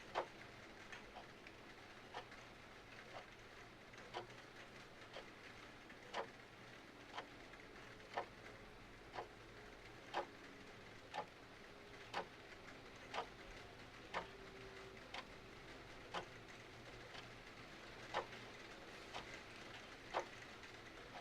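Clock ticking about once a second over a faint, steady hiss of rain, with fainter irregular crackles of a fireplace in between.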